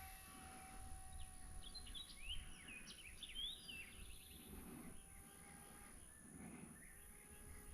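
A small bird chirping: a quick run of rising and falling notes from about one and a half to nearly four seconds in. A faint steady high hiss runs underneath.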